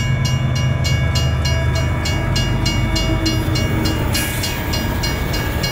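Train passing: a steady low rumble with rapid, evenly spaced clicks, about five a second, and a few faint steady high-pitched tones running through it.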